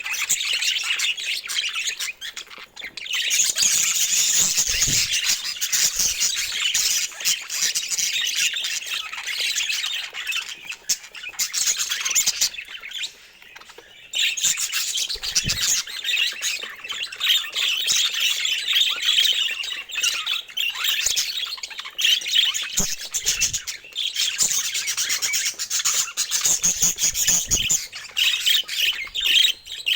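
A flock of budgerigars chattering and warbling continuously, with a short lull a little before halfway.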